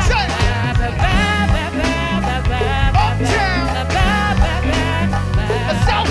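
Live band music: a steady bass line and drums under a voice singing.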